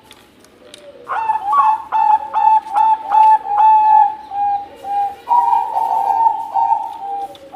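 Bangkok perkutut (zebra dove) cooing: a run of short, clear repeated notes, about two a second, starting about a second in, running into a longer rolling phrase near the end.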